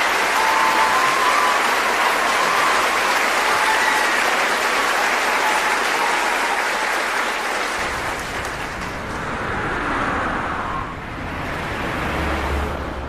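Audience applauding, fading away after about ten seconds, with a low rumble coming in during the second half.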